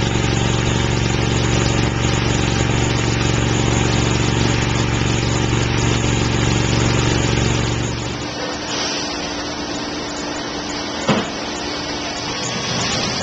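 A hydro-jetter's Honda engine running steadily at a constant pitch. About eight seconds in, the engine hum drops away, leaving a steady rushing hiss with a single knock near the end.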